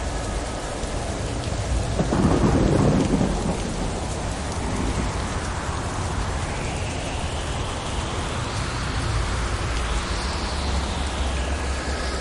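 Steady rain falling, with a clap of thunder about two seconds in that rumbles for a second or so. In the second half a higher hiss swells and fades a few times over the rain.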